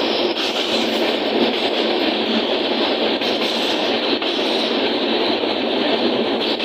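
Steady running noise of a moving train, heard on board: the wheels rumbling and rattling along the rails, recorded on a phone.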